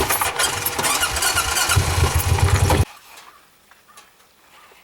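Farm vehicle engine running loudly, then cut off abruptly a little under three seconds in, leaving only faint background sound.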